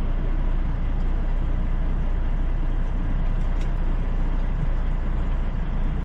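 Steady rumble of a moving road vehicle's engine and tyres, with no distinct events. It cuts off abruptly at the end.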